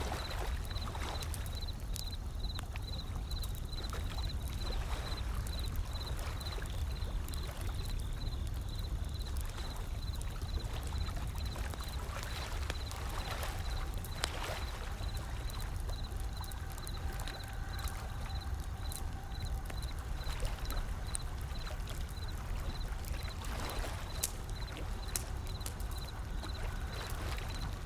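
Wood fire crackling with scattered sharp pops over the steady low rumble of ocean waves rolling in, with a few surges as waves wash up.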